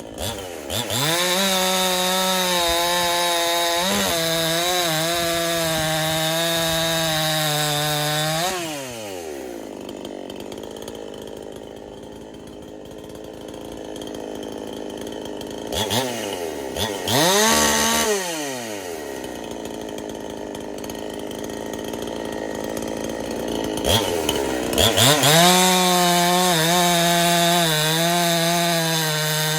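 Husqvarna-clone two-stroke chainsaw, fitted with a big bore kit and run without a base gasket, revved up to a steady high scream and held there. It drops back to idle, is given a short blip of throttle, then is revved up and held high again.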